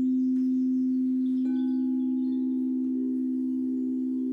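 Singing bowl ringing with a steady, sustained low hum. About one and a half seconds in, a light stroke adds fainter, higher ringing tones over it, with a few faint chime-like tinkles above.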